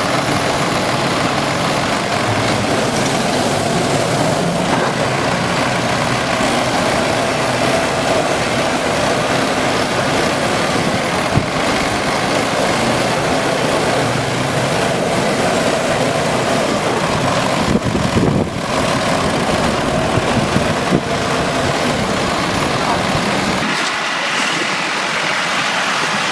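Heavy vehicle engine running steadily under dense mechanical noise, with a few sharp knocks in the middle. The low rumble drops away near the end.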